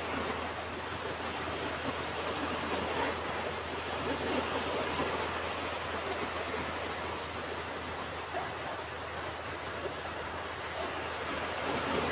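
Ocean surf washing onto a beach: a steady rushing hiss of breaking waves that swells gently now and then, with no single sharp crash.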